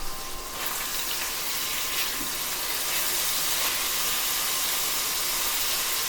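Ground beef browning in a pot, sizzling steadily; the sizzle grows louder about half a second in as the meat is stirred.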